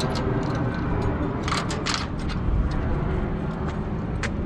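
Steady low rumble of the crane truck's engine running, with a few light clicks over it.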